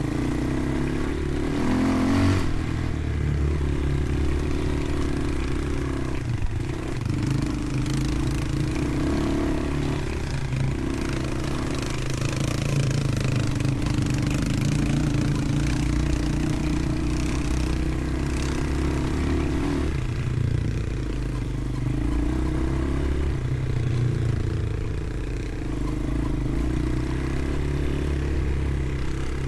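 Motorcycle engine running while being ridden, its note stepping up and down several times as the throttle and gears change.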